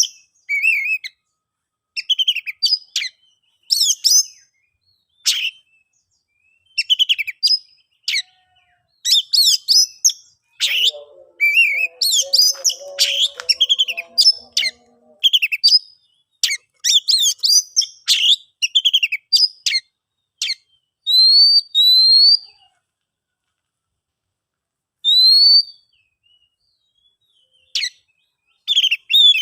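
Oriental magpie-robin (kacer) singing: short phrases of varied chirps, whistles and chatter with silent gaps between them, and a few clear rising whistles in the second half.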